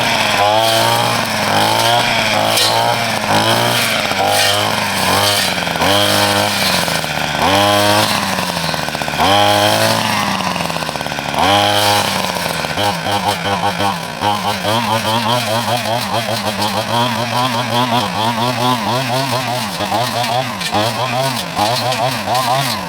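Chainsaw cutting small trees. Its motor pitch repeatedly rises and then drops as it bogs into each cut, about once every second or so, then wobbles rapidly through the second half as it works steadily through the wood.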